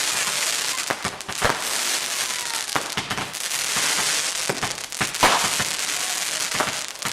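Garden firework burning with a steady hiss and crackle, broken by sharp pops scattered through it, the loudest about five seconds in.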